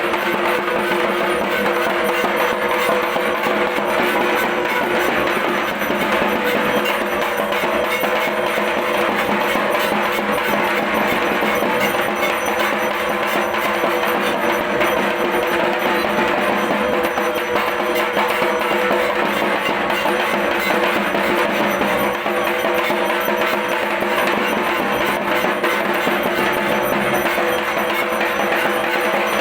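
Continuous music of fast, steady drumming with ringing metallic bell-like percussion, loud and unbroken.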